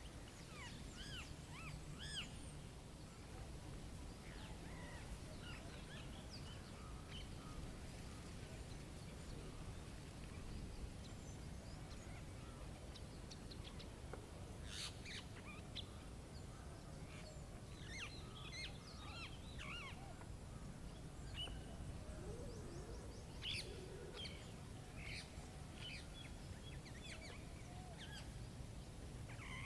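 Birds chirping and calling here and there over a steady low background hiss of outdoor ambience, with clusters of calls about halfway through and again near the end.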